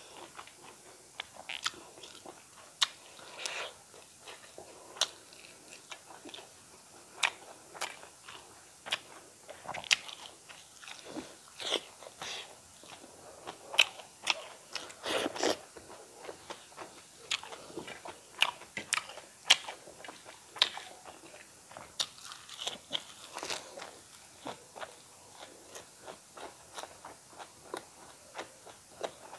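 Close-miked chewing and biting of fried eel and fresh greens eaten by hand, full of irregular sharp crunches and crackles.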